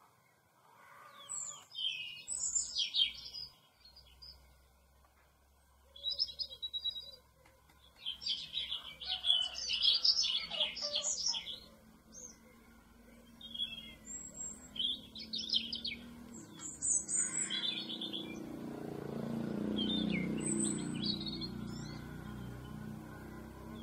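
Small birds chirping in scattered bursts of quick high notes. A low rumble swells near the end and then eases off.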